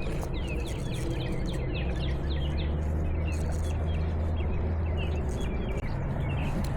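Small birds singing in a rapid run of short, falling chirps, over a steady rushing background and a low hum.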